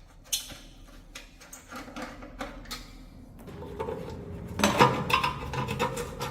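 Light metallic clinks and taps of tools or parts being handled, sparse at first and busier about two-thirds of the way in.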